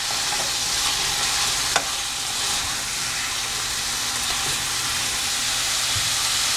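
Boneless chicken pieces sizzling in their own released oil, frying dry without water in an open pan while being stirred. There is a steady hiss, with one sharp clink about two seconds in.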